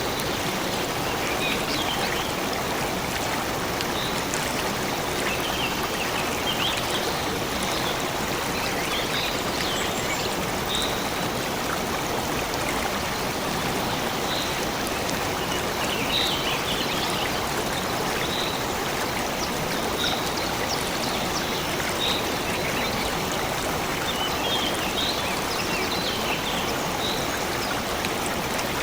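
Steady rushing of a flowing stream, with short high bird chirps scattered over it every second or two.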